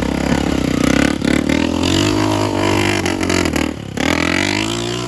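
Honda CRF230 dirt bike's single-cylinder four-stroke engine running hard under throttle, its pitch rising and falling. Just before four seconds in the throttle drops off briefly, then it picks up again.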